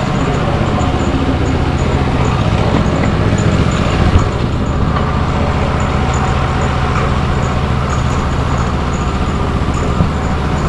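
A motor running steadily, a low droning hum that holds even throughout.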